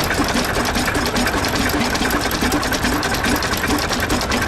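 Antique Avery tractor two-cylinder opposed engine running steadily with a fast, even beat.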